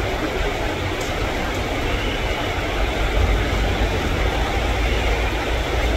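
Heavy rain pouring steadily as an even hiss, with a low rumble underneath from a JR 205 electric commuter train approaching slowly.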